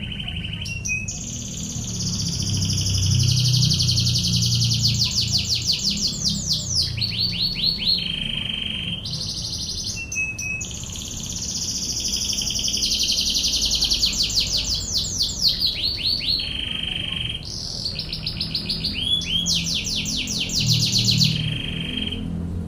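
Domestic canary singing long, high-pitched phrases of fast rolling trills and rapid repeated notes. The song comes in three long runs broken by short pauses.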